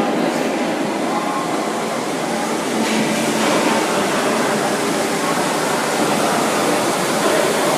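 Steady hum and rumble of an electric train in an underground station, with no clicks or squeals.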